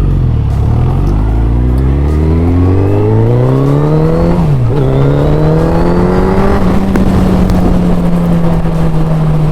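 2023 Suzuki Hayabusa's 1340 cc inline-four engine under hard acceleration: the revs climb steadily, drop briefly at an upshift about four and a half seconds in, then climb again and hold high.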